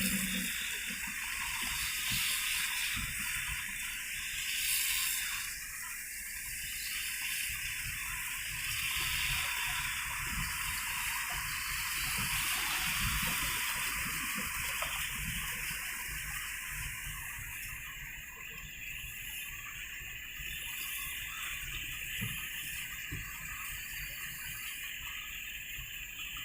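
Steady rushing of rain and running water on a road, with a low rumble underneath.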